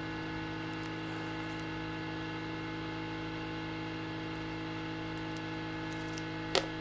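Steady electrical mains hum, with one sharp click near the end.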